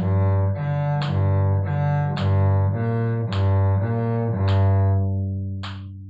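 Cello bowing a B-flat major arpeggio study: each arpeggio note alternates with the open G string in even notes about two a second. The last note is held and fades out near the end. A short click sounds about once a second throughout.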